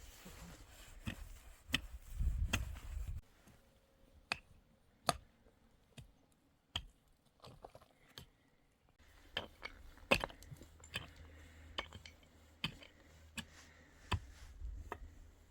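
A series of sharp, irregular clicks and knocks, roughly one a second with some close together, over a faint low rumble.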